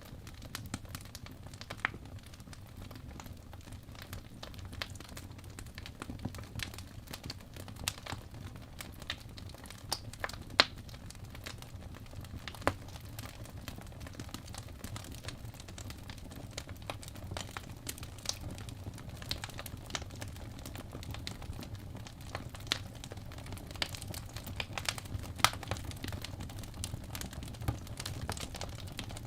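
Wood fire burning in a fireplace: a steady low rumble of flames with irregular crackles and sharp pops from the burning logs, a few louder pops scattered through.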